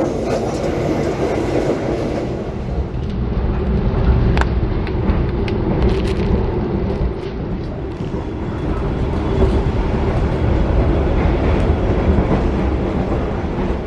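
Passenger train running, heard from inside the carriage: a steady low rumble with wheel clatter. A few sharp clicks come between about four and six seconds in.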